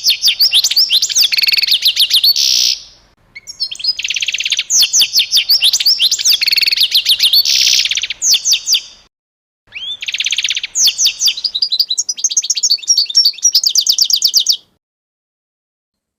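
A songbird singing loud, fast songs of chirps, trills and quick sweeping notes in three long bouts with short pauses between them. It cuts off abruptly a couple of seconds before the end.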